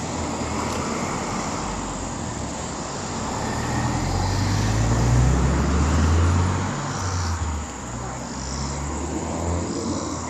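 Cars passing on the street: engine hum and tyre noise swell to a peak about five to six seconds in and then fade, with another vehicle going by afterwards.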